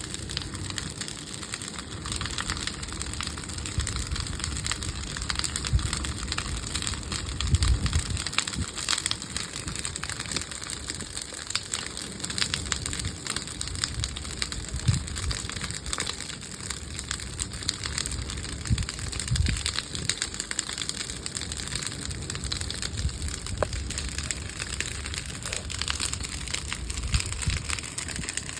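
Bonfire of old wooden pallets burning, the wood crackling and popping with many sharp snaps over a steady hiss, with low rumbles swelling now and then.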